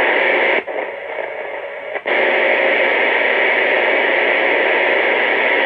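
CB radio speaker hissing with the static of a keyed carrier that carries no audio. The hiss drops away with a click about half a second in and comes back with another click about two seconds in.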